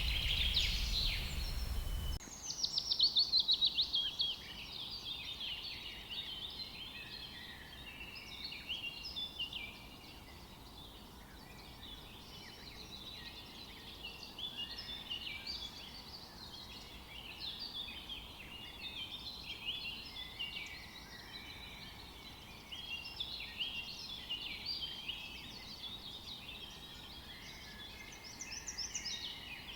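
Many small birds chirping and calling over a steady, faint outdoor background, with a sudden change in that background about two seconds in.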